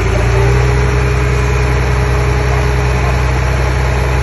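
Diesel engine of a Komatsu D20P bulldozer running steadily at a constant speed, with a steady whine above the low engine note.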